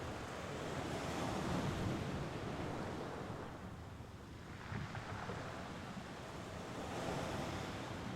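Mediterranean Sea waves washing onto the shore, a wave breaking and hissing up the beach, easing off in the middle, then another washing in near the end.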